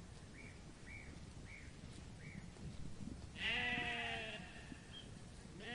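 A sheep bleating once, a call of about a second roughly three and a half seconds in, with another bleat starting at the very end. Before it come four faint, short high chirps about half a second apart, over a low steady rumble.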